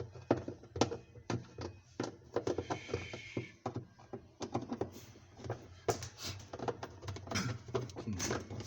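Repeated knocks, taps and clatter of parts being handled while a washing machine is taken apart, with a short hiss about two and a half seconds in.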